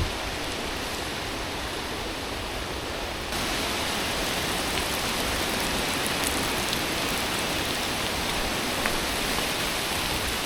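Heavy rain falling steadily, with scattered drops ticking close by; the downpour grows louder about three seconds in.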